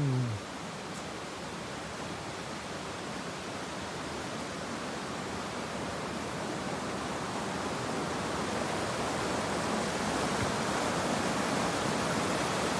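Steady rushing noise that grows gradually louder, with a brief falling voice sound at the very start.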